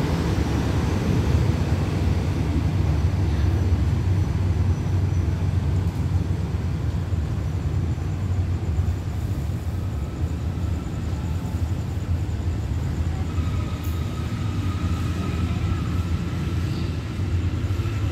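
Rumble of a diesel-hauled express passenger train pulling out and receding, a steady low rumble that eases off slowly as the train draws away. A faint thin high tone joins about two-thirds of the way through.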